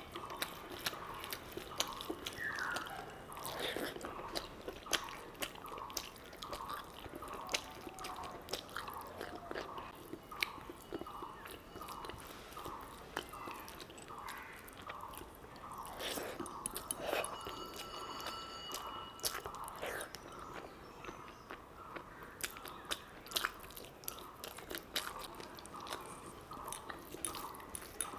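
Close-up chewing and biting of a mouthful of curry and rice, in a steady rhythm of about one and a half chews a second, with wet mouth clicks.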